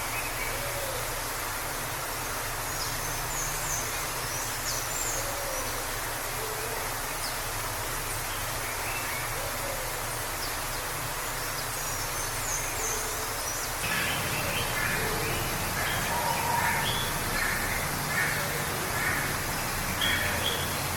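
Waterfall rushing in a steady, even roar, with forest birds chirping over it. From about two-thirds of the way in, birds call more often in quick repeated notes.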